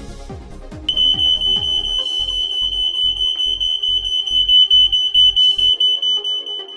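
Smoke alarm going off: one continuous high-pitched electronic tone that starts about a second in and holds steady until the end, over electronic background music.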